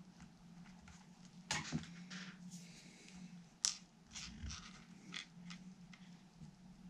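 Small handling noises at a workbench: scattered clicks, taps and rustles of parts and tools being handled, with two sharper clicks about a second and a half and three and a half seconds in. A faint steady low hum sits under them.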